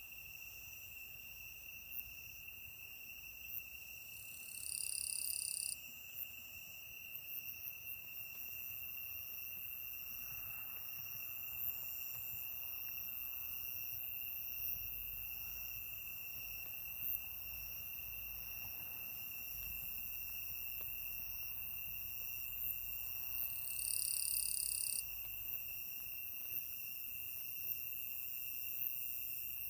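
Singing insects in an autumn night chorus: a steady high-pitched trill that never breaks, with fainter higher-pitched singers above it. A second insect joins twice with a louder, higher call of about a second and a half, about five seconds in and again near the end.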